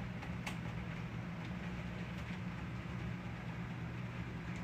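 Steady hiss of rain in a thunderstorm over a constant low hum, with a faint click about half a second in; no distinct thunderclap.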